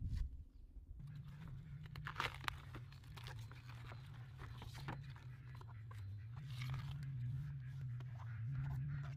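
Crisp crunching and tearing of vegetables being peeled and cleaned by hand, over a steady low hum.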